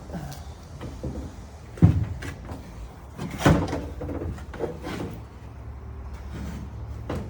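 Metal clunks and knocks as the cut-off steel roof panel of a BMW E36 is handled, two sharp ones about two and three and a half seconds in, over a low steady hum.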